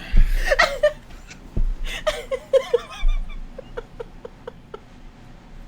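A woman laughing under her breath: a breathy burst of laughter, then a run of short, quiet chuckles, about four a second, trailing off.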